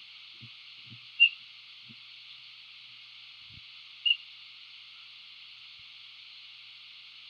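Two short, sharp high chirps about three seconds apart over a steady high hiss. A few soft low thuds come in the first few seconds as a Laysan albatross chick flaps its wings on the grass.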